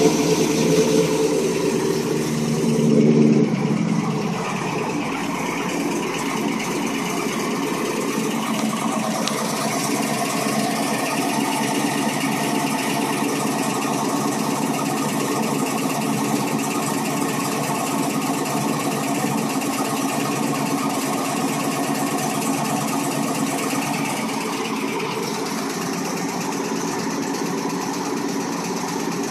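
Car engine just after a cold start, running at a raised idle for the first three or four seconds, then settling into a steady idle with a rapid ticking throughout: the cold-start tick.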